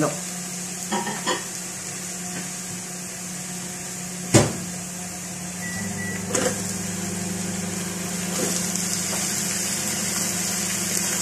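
Garlic sizzling in hot oil in a pot while a wooden spatula stirs it, with a single sharp knock about four seconds in and a smaller one a couple of seconds later. Near the end the sizzle grows louder as raw chicken pieces go into the hot oil.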